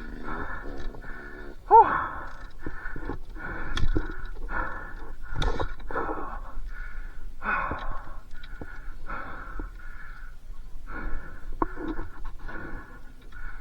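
A motocross rider breathing hard and fast inside his helmet, about one breath every two-thirds of a second: out of breath after a crash. A few sharp knocks come through, the loudest about two seconds in.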